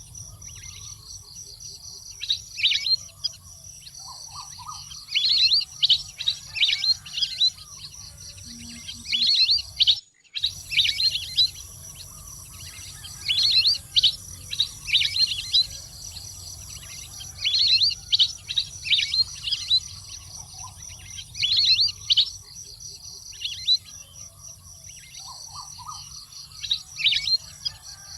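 Waterbird calls: clusters of high, falling whistled notes repeating every few seconds, over a steady high insect drone. The sound drops out briefly about ten seconds in.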